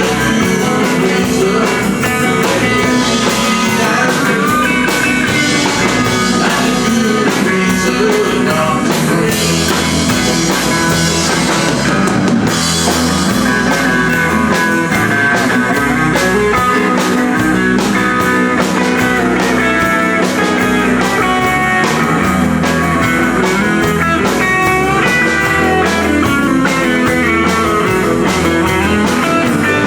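A live band playing a country-rock song: guitar over drums keeping a steady beat.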